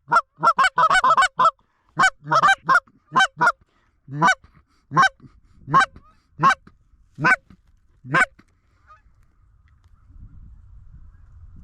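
Goose honks: a quick run of clucks, then single honks coming further and further apart, the last about eight seconds in.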